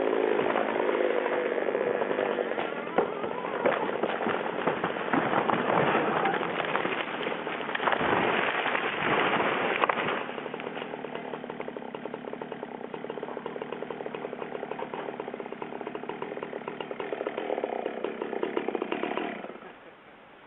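A large tree coming down: wood cracking and branches crashing for about ten seconds, with a heavy impact around eight seconds in, over a running chainsaw. The chainsaw then runs on steadily and stops shortly before the end.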